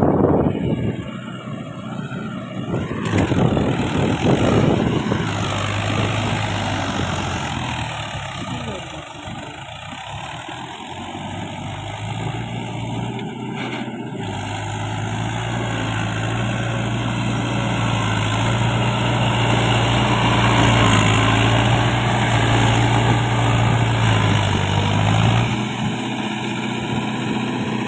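Tractor engine running hard and steady, its low drone firm through most of the stretch, then dropping back sharply near the end.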